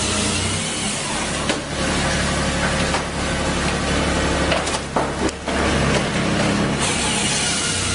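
RCA-400Joy firewood processor running with a steady machine drone, with sharp cracks of wood splitting about one and a half seconds in and again around five seconds in.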